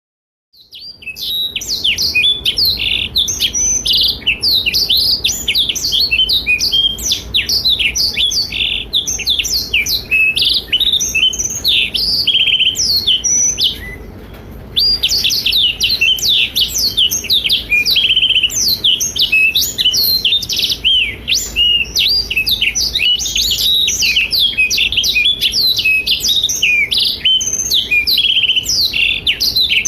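Blackthroat (black-throated canary) singing a fast, unbroken stream of high twittering trills and warbles. The song begins about a second in and has a brief pause about halfway through.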